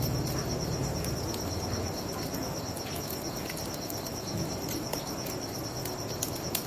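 Crickets trilling steadily in a fast, even pulse, over the crackle and occasional sharp pops of a wood bonfire and a low rushing background.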